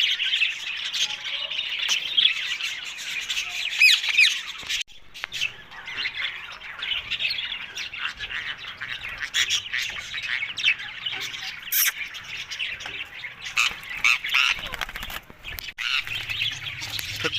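Indian ringneck parakeet (rose-ringed parakeet) chattering and squawking almost without pause, with a short break about five seconds in.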